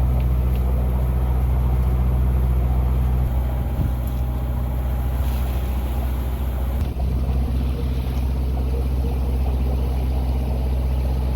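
A sailboat's inboard engine running steadily under way, a low droning hum with a steady pitch.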